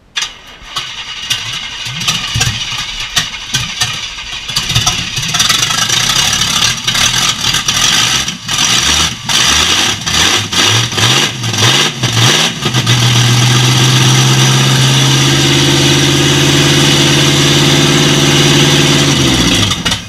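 Chevrolet 350 small-block V8 on open headers with no exhaust, firing up for the first time: it catches and stumbles unevenly with repeated brief cut-outs for about twelve seconds, then holds a steady rev for about seven seconds before shutting off.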